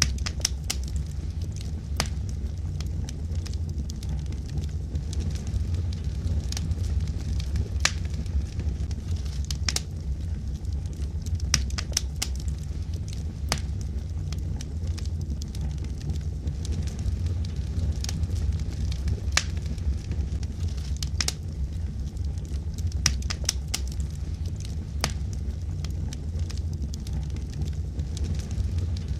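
Wood logs burning in a fireplace: a steady low rumble of the fire with frequent sharp, irregular crackles and pops.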